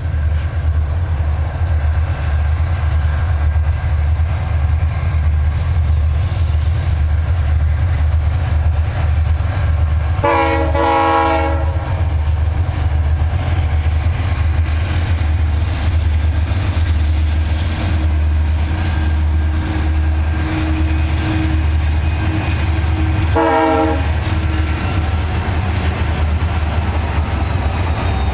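Several diesel-electric freight locomotives pulling a freight train, their engines giving a loud, steady low rumble. The locomotive air horn sounds twice: about ten seconds in for under two seconds, and again a little after twenty seconds, briefly.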